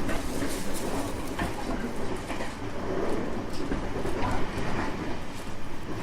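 JR West 225 series 5000-subseries electric train running along the track, heard from inside the car: a steady rumble of wheels on rail with occasional clicks.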